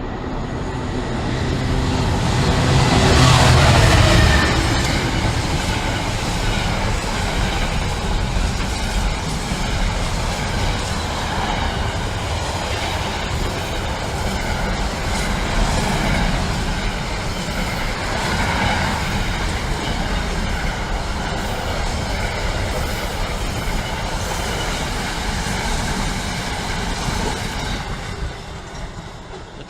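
Class 66 diesel freight locomotive passing through at speed, its engine loudest about three to four seconds in. A long train of freight wagons follows, rumbling and clattering over the rails, and tails off near the end.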